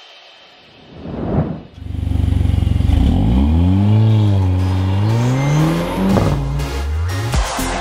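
A brief whoosh about a second in, then a Mercedes-Benz A45 AMG's turbocharged 2.0-litre four-cylinder engine revving hard as the car pulls away, its pitch rising and falling with the revs. Electronic music comes in near the end.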